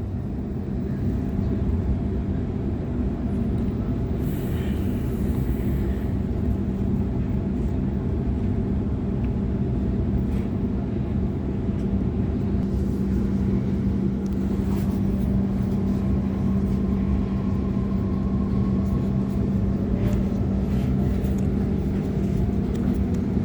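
Cabin sound inside a Sydney Trains Waratah electric multiple unit: the steady rumble and hum of the train, with a constant low tone and a few light clicks.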